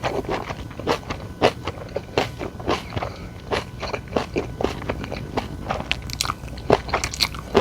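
A person chewing and crunching food up close, with sharp, crackly bites and mouth sounds about twice a second.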